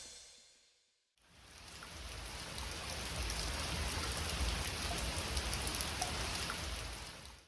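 Rain pouring steadily in a typhoon. It fades in a little over a second in and fades out near the end.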